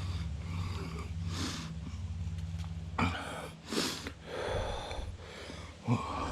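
A person breathing heavily, a handful of loud breaths and sniffs a second or so apart, over a low steady hum.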